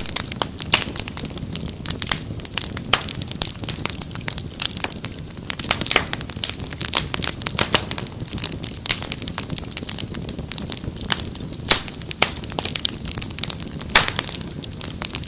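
Wood fire crackling: frequent sharp, irregular pops and snaps over a low steady rumble of burning.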